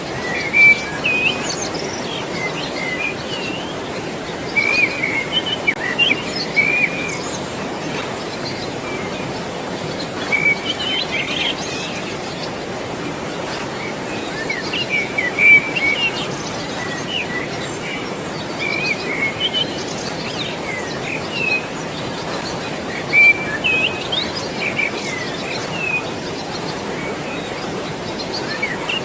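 Birds chirping in scattered quick bursts every few seconds over a steady rush of water.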